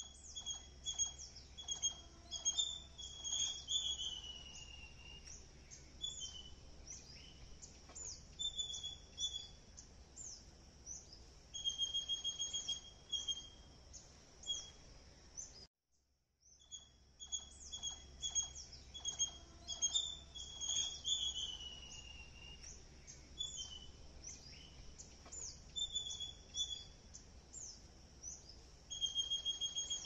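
Songbirds chirping and calling: many short high chirps and quick falling notes, with a few short trills, over a faint steady low hum. The same stretch of birdsong, about fifteen seconds long, plays twice, with a brief dropout halfway through.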